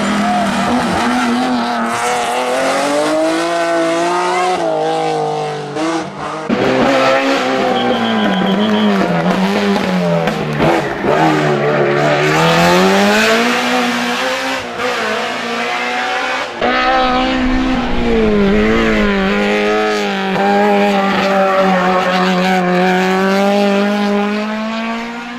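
Race-prepared BMW M3 engine at full throttle, its pitch climbing and dropping repeatedly through gear changes and lifts. There are abrupt changes in the sound about six and sixteen seconds in.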